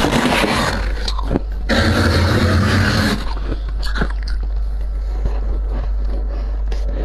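Dry, squeaky freezer frost being scraped and crunched. It comes in two dense stretches over the first three seconds, then turns quieter with scattered crackles. A steady low hum sounds throughout.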